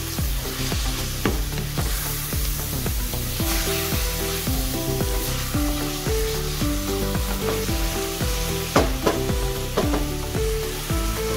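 Mutton and chopped onions sizzling in hot oil in a wok while a wooden spoon stirs them, with a few sharp knocks of the spoon against the pan late on. Background music with a steady beat plays underneath.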